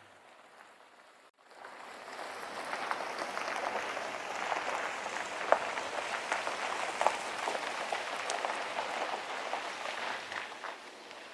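Wood fire crackling in a homemade fire pit, a dense hiss of small crackles with a few sharper pops, starting after a brief cut about a second in.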